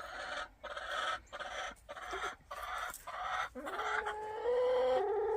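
Unhappy backyard hen squawking: a run of short, harsh calls about two a second, then a long drawn-out pitched complaint call, loudest near the end.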